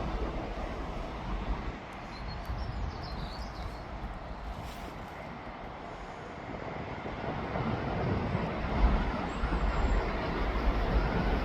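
Low, steady rumble of heavy construction vehicles working, growing louder over the last few seconds.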